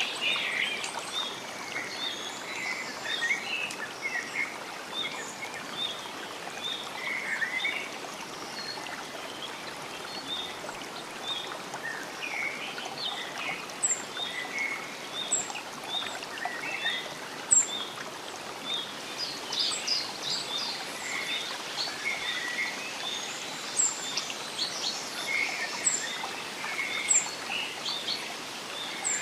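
Forest birdsong: several birds chirping and calling at once, one repeating a short note about twice a second and another adding high chirps every second or so in the second half, over a steady hiss of running water.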